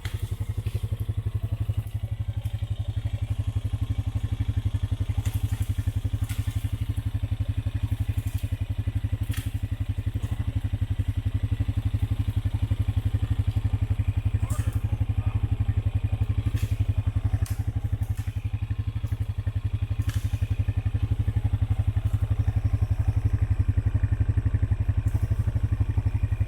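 Off-road four-wheeler's engine running steadily at low speed, with scattered knocks and clatter from the machine jolting over rough woodland trail.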